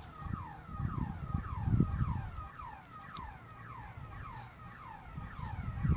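A car alarm whooping: a rapidly repeating falling tone, about three a second, with low wind rumble on the microphone beneath it.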